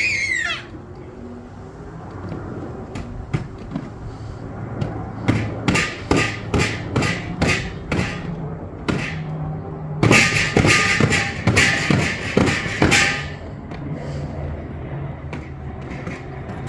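A run of sharp knocks, roughly two a second, then a burst of louder, harsher thumps lasting about three seconds past the middle.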